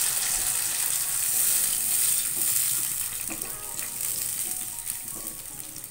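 Tomato and red-chilli paste sizzling in hot oil in a non-stick kadai while being stirred with a wooden spatula; the sizzle slowly dies down.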